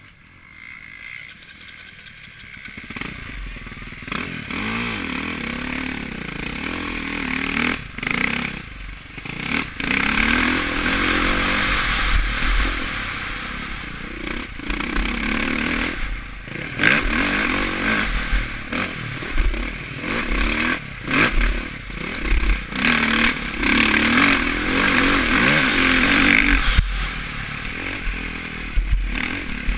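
Suzuki RM-Z450 four-stroke single-cylinder motocross engine revving hard and falling off again and again as the bike is ridden round a track, with wind rushing over a helmet-mounted microphone. It starts quieter and builds after the first few seconds, with scattered low thumps and clatter from the bike.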